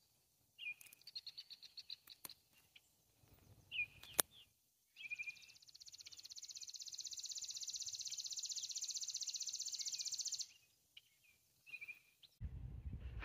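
Wild songbirds calling: short sliding chirps and quick high trills, then one long, even, fast high trill lasting about five seconds. A low rumble comes in near the end.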